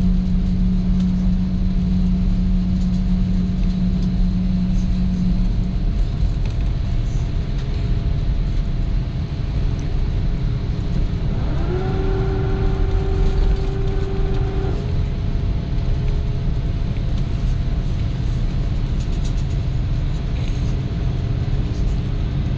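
Airbus A330-200 cabin noise around landing: a steady low rumble throughout, with a steady hum that stops about five seconds in. Around the middle a whine rises in pitch, holds steady for about three seconds, then cuts off.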